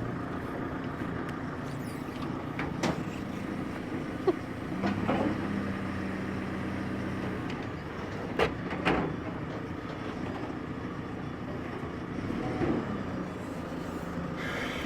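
An engine running steadily at idle, with a few short knocks and clanks over it.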